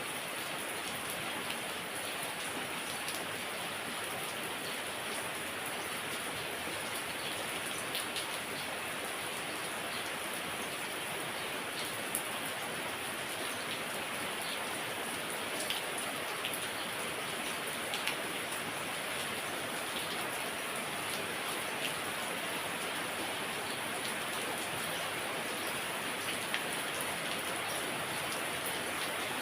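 Heavy rain falling steadily, a dense even hiss with scattered sharper ticks of single drops striking a surface.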